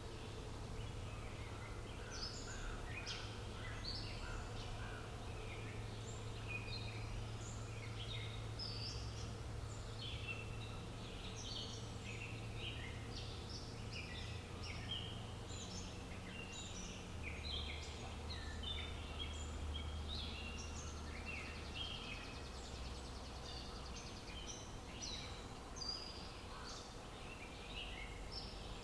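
Many small birds chirping at once, a busy overlapping chorus of short high chirps that keeps going, over a steady low hum.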